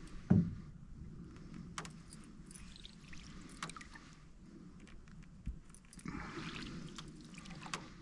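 Canoe being paddled: a hollow knock on the hull just after the start, the loudest sound, then a few light clicks and a splash of water off the paddle about six seconds in.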